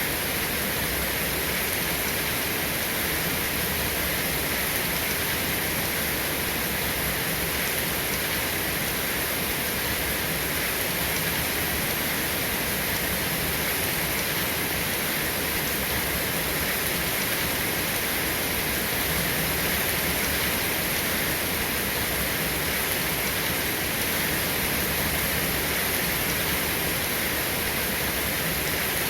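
Steady, unbroken rainfall with no thunder.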